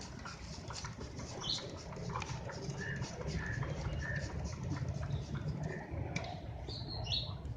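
Background ambience: a steady low rumble with several short, high chirps, the loudest near the middle and end.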